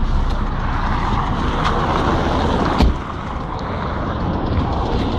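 Lada Priora engine running with a knock that the owner takes for either the hydraulic valve lifters or the piston and connecting-rod group, despite fresh oil and filters. There is one heavier thump a little before three seconds in.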